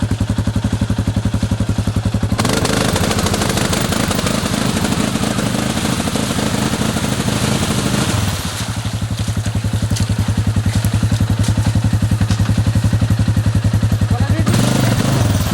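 ATV engine running at low throttle with an even, rapid putter. About two seconds in the throttle opens and the engine runs harder for several seconds, then drops back to its low, even running.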